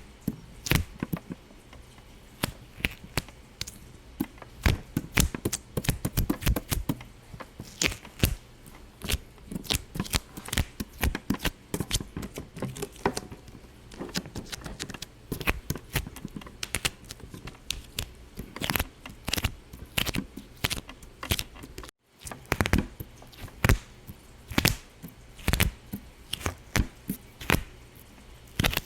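Irregular sharp pops and clicks, a few a second, with a brief cut-out about 22 seconds in.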